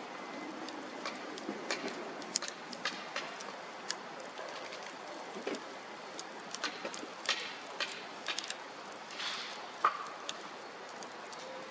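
Bonfire crackling: irregular sharp snaps and pops over a steady hiss.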